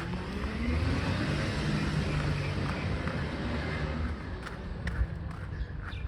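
Garbage truck engine running as it drives by, a steady hum with a broad rushing noise that eases after about four seconds, then a few sharp clicks near the end.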